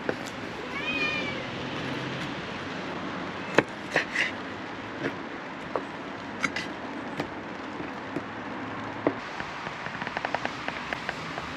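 A cat meows once, a short rising-then-falling call, about a second in. Scattered sharp clicks and knocks follow, with a quick run of ticks near the end.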